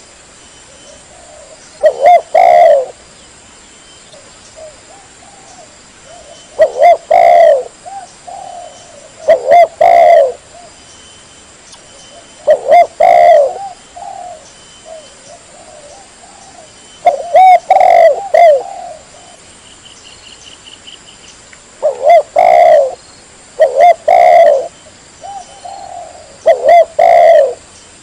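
Spotted dove (tekukur) cooing loudly and clearly: short phrases of low coos repeated every two to three seconds, a lure call for wild doves.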